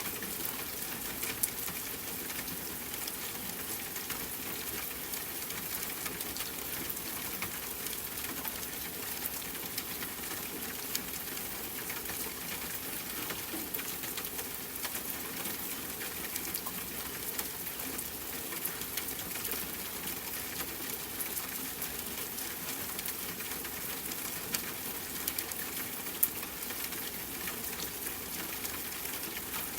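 Steady rain falling and pattering, with scattered sharper drip ticks.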